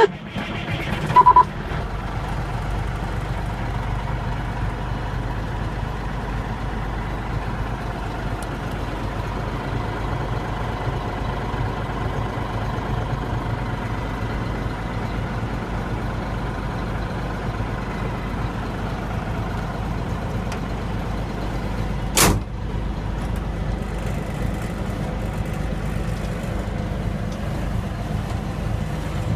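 1994 Mack RD690S mixer truck's diesel engine just started, loud for the first second or so, then idling steadily. A brief beep about a second in, and one short sharp noise about three-quarters of the way through.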